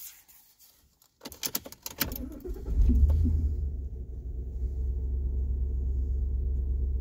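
Keys jangling with a run of clicks, then a vehicle engine starts about two and a half seconds in and keeps running with a steady low rumble.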